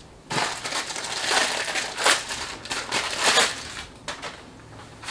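Packaging being handled and unwrapped, a dense crinkling and crackling that comes in several louder surges for about four seconds.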